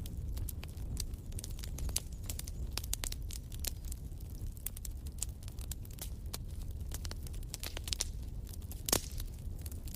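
Fireplace fire crackling: a steady stream of irregular sharp snaps and pops over a low, even rumble, with one louder pop about nine seconds in.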